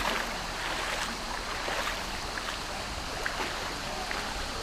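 Water of a low-running stream flowing steadily, with a few faint clicks over it.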